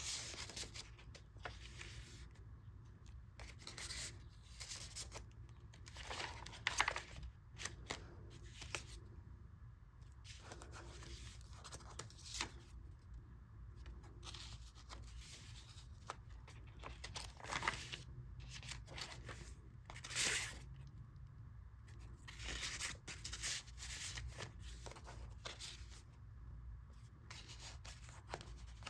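Paper pages and inserts of a handmade junk journal being turned and handled: irregular soft rustles and swishes of paper every second or two.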